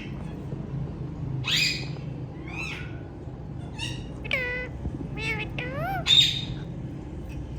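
Indian ringneck parrots calling: a string of short whistled calls that bend up and down in pitch, with two harsher screeches, the loudest about six seconds in.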